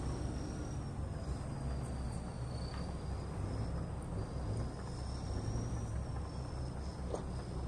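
Heavy diesel earthmoving machinery running steadily with a low rumble, and a thin high whine that slowly wavers up and down in pitch above it.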